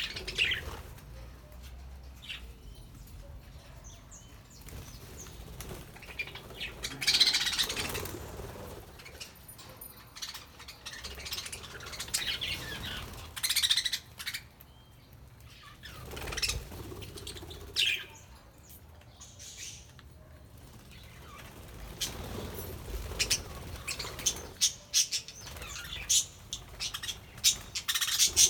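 Budgerigars chirping and flapping their wings, in short bursts every few seconds, with a run of quick clicks near the end.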